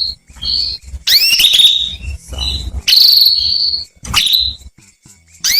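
Female canary calling: a series of about five high calls, some rising chirps and some short held whistled notes, with brief gaps between them. It is a female's call to male canaries.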